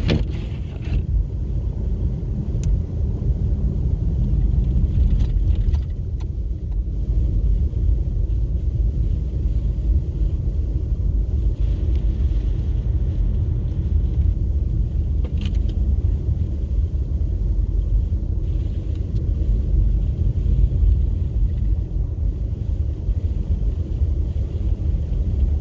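Car driving on a snowy road, heard from inside: a steady low rumble of engine and tyre noise, with a few faint clicks.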